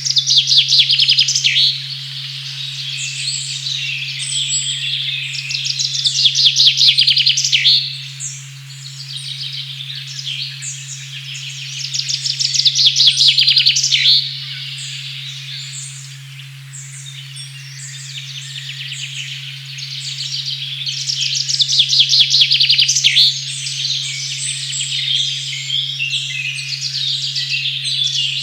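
Songbirds singing in a forest, with loud, fast trilled phrases every several seconds over scattered chirps. Under them a steady low sine tone at 136.1 Hz hums without a break.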